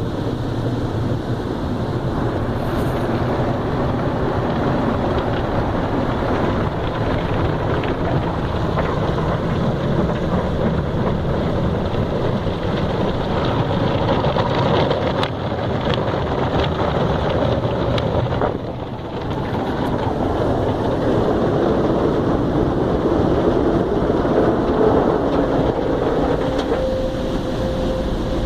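Automatic car wash working over the car, heard from inside: a steady rush of water spray and machinery that swells and dips, with a steady hum joining near the end.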